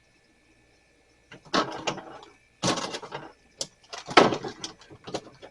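Handling noises: about four short bursts of rustling and clattering as things are moved around and set down.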